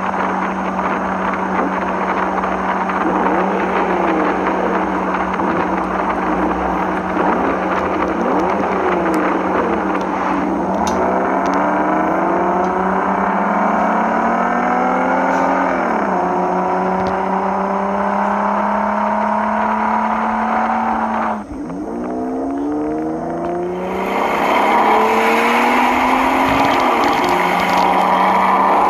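Car engine revving, its pitch rising and falling again and again over a steady hum. The sound changes abruptly about two-thirds of the way through and turns brighter and noisier near the end.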